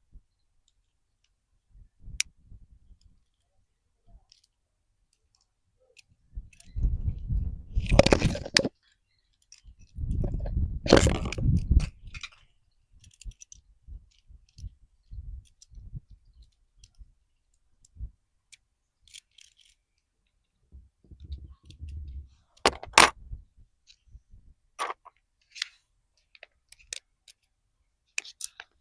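Kinder Joy egg packaging and small plastic toy pieces handled up close: two longer bursts of rustling and crinkling, with scattered plastic clicks and taps between.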